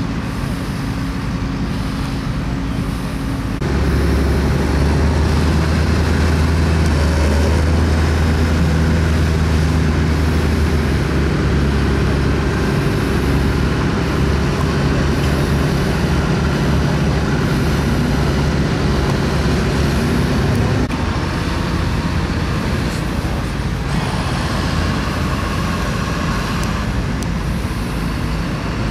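Vintage tractor engine running steadily. It gets louder and deeper about four seconds in and drops back about 21 seconds in.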